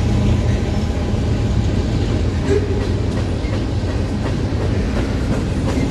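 Freight train passing: a steady low diesel locomotive rumble, and from about halfway in, the wheels clicking over rail joints in a quickening series of clacks.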